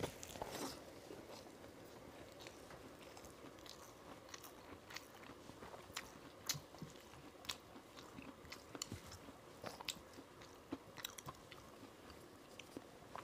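Close, faint chewing through a clip-on lapel microphone: a mouthful of rice mixed with fried bottle gourd peel, eaten by hand, with irregular small crunches, clicks and wet mouth smacks.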